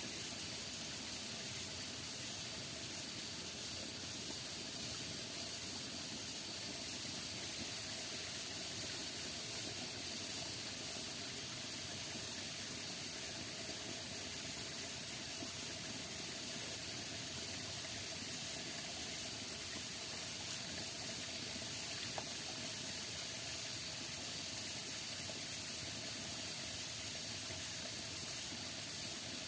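Steady rain falling in the forest: an even, unbroken hiss.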